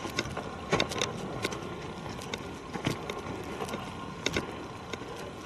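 Footsteps on a dry forest trail: a few irregular crunches of shoes on leaves and stones over a steady outdoor hiss.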